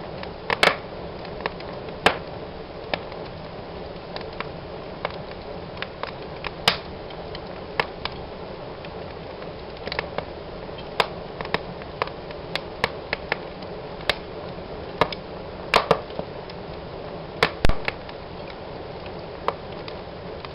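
Wood fire burning in a fireplace: a steady hiss of flames under irregular crackles and sharp pops, with a few louder pops scattered through, the loudest about three quarters of the way in.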